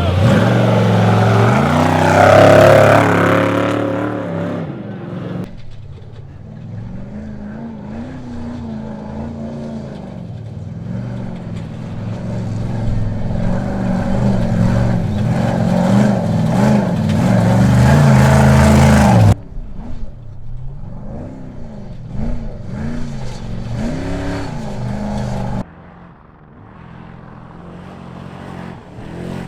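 Trophy truck engines revving hard, the pitch climbing and dropping as the trucks accelerate and back off, loudest early on. There are abrupt changes in level partway through and near the end, like cuts between shots.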